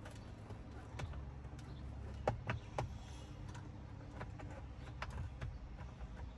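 Scattered clicks and taps, with a few sharper ones about two and a half seconds in, from prying at the clips of a Silverado's steering-wheel horn pad to work it loose. A steady low hum runs underneath.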